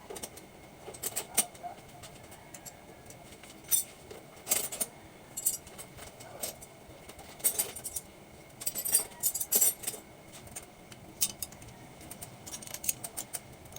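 Irregular metallic clinks, clicks and jangles of tools and metal hose fittings being handled, in scattered clusters with the busiest stretch in the middle.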